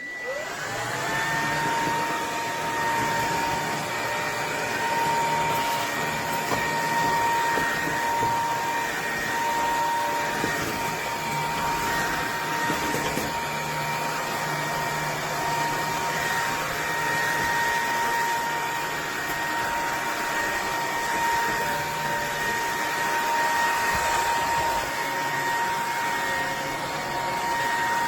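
Bissell PowerClean vacuum cleaner's 200 W motor spinning up over the first second, then running steadily with a high, even whine over the rush of air.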